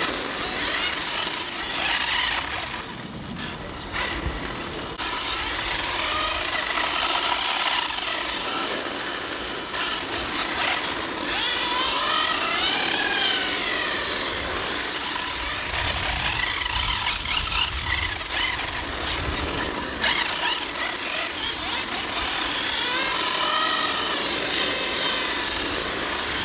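Electric RC drift cars' brushless motors whining, the pitch rising and falling several times as they speed up and slow down, over a steady hiss.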